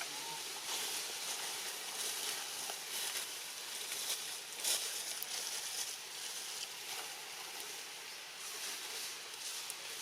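Steady hissing outdoor background noise with scattered soft clicks and rustles, one a little louder about halfway through.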